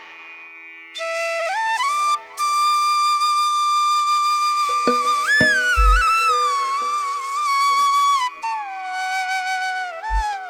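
Background music led by a flute, playing long held notes that slide between pitches over a steady drone, with a couple of low thumps partway through and near the end.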